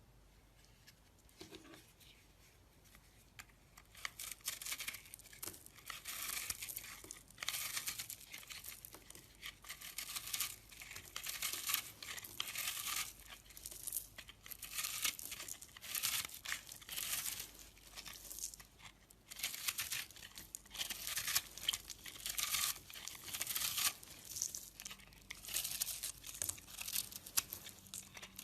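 Knife blade cutting and scraping into a bar of soap, dry crisp strokes repeating roughly once a second, starting a few seconds in.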